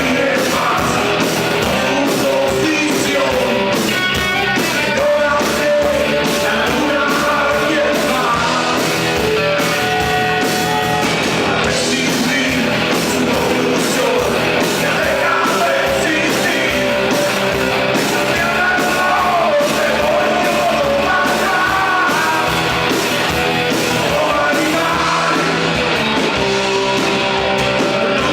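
Rock song: a band playing with drums on a steady beat, under a singing voice.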